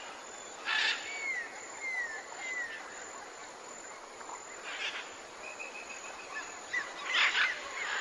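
Wild birds calling: a few short, harsh calls with a string of three thin, falling whistles early on, over a steady background hiss.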